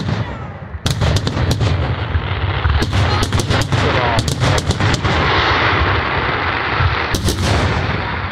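Fireworks display: aerial shells bursting in a dense, rapid barrage, with sharp cracks over a continuous low rumble of booms that grows heavier about a second in.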